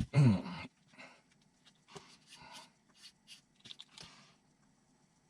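A brief low vocal sound that falls in pitch, about half a second long. It is followed by scattered light clicks and rustling of small parts being handled.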